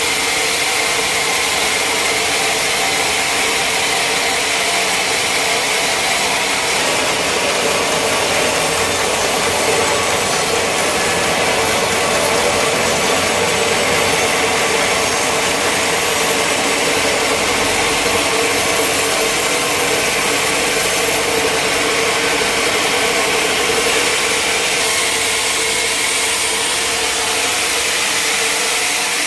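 Sawmill machinery running steadily, a loud continuous mechanical noise with no pauses.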